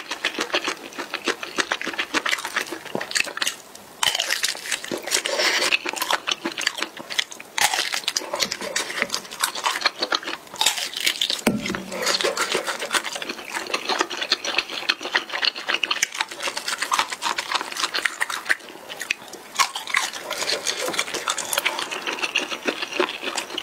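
Close-miked chewing and mouth sounds of a person eating: a dense run of quick wet clicks and smacks. Chopsticks pick at the leftovers on the tray.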